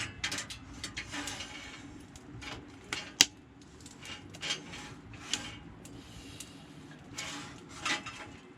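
Camp cookware being handled: scattered clinks and knocks, the sharpest about three seconds in.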